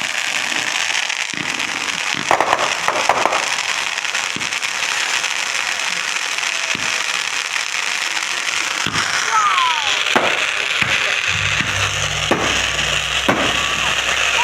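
Consumer fireworks going off: steady crackling and popping, with a few sharp bangs and short falling whistles about nine seconds in.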